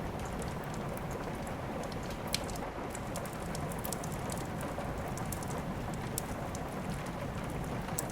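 Steady rain mixed with a crackling wood fire in a fireplace: an even hiss with scattered sharp crackles throughout, one louder pop a little over two seconds in.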